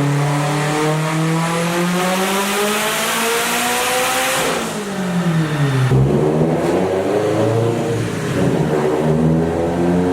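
Car engine under full load on a chassis dyno. Its pitch climbs steadily for about four seconds, drops sharply, then climbs again.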